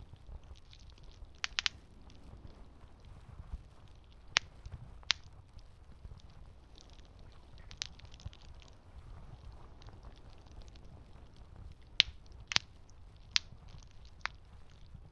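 Wood campfire burning: a low steady rumble with faint crackling and sharp pops now and then, a quick cluster of snaps about a second and a half in, single pops around four and five seconds in, and four more in the last few seconds.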